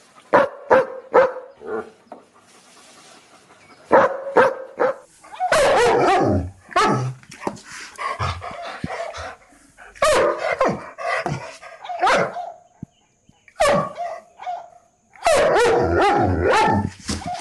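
Dogs barking angrily in fast runs of sharp barks, several at once in the busiest stretches, with a few short gaps.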